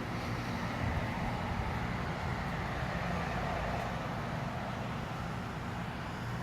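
A car engine running steadily, a low even hum with no revving.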